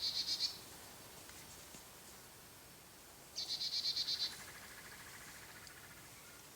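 A wild animal's high, fast, even trill lasting about a second, heard at the start and again near the middle, followed by a fainter, lower trill.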